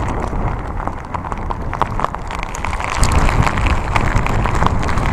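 Typhoon-force wind buffeting a phone's microphone in a low, rumbling rush, with rain drops clicking sharply on it. The gusting grows louder about three seconds in.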